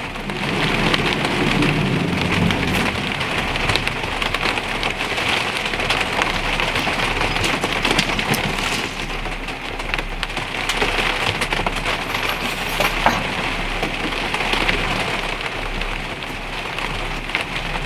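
Steady rain falling on the greenhouse, with many sharp drop hits scattered through it.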